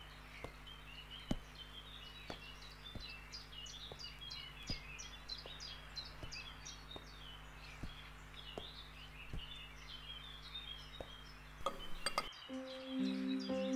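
Small birds chirping and twittering continuously over a low steady hum, with faint ticks about once a second. Near the end the sound cuts and sustained music tones begin.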